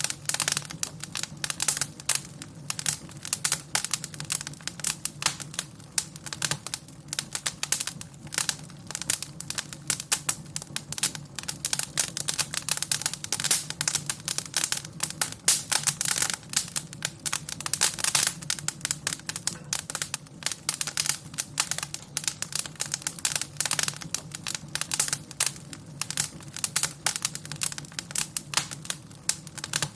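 Wood fire crackling in a fireplace: dense, irregular pops and snaps over a low, steady hum.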